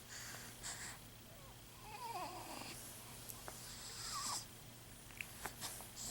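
A four-week-old pet animal making breathy, wheezy noises, with two small high squeaks about two and four seconds in and a few light clicks near the end.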